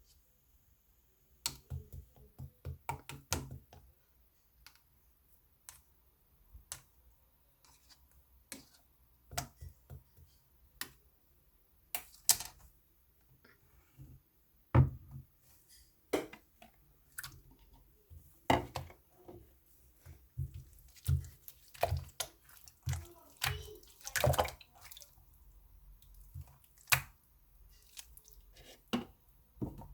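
Cream-topped slime being squished, poked and pressed by hand, giving irregular wet clicks and pops as air pockets in it burst.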